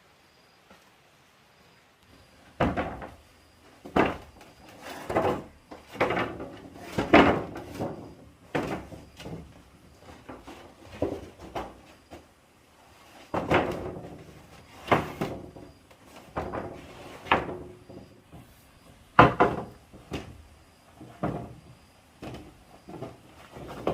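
An irregular series of wooden knocks and bangs, roughly one a second, beginning a couple of seconds in, with quieter clatter between them.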